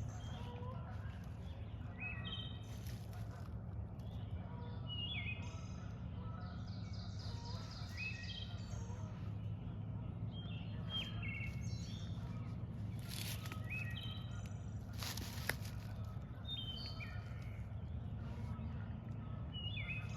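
Songbirds singing, short repeated phrases from several birds over a steady low rumble, with a few brief rustling sounds.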